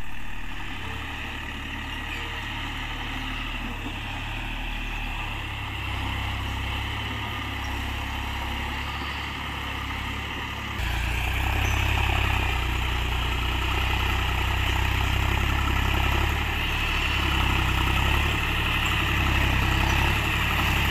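John Deere 5105 tractor's three-cylinder diesel engine running steadily at low revs, becoming louder abruptly about halfway through.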